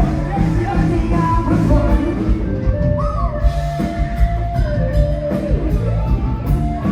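Live band music played loud: drums, bass and guitar under a singer holding long notes.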